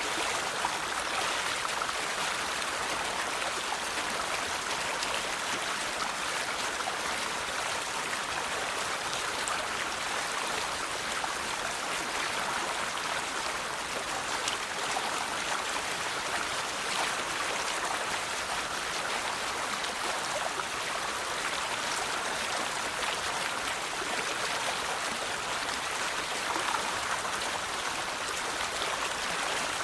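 River water flowing and burbling steadily, a continuous rush of moving water with small splashes here and there.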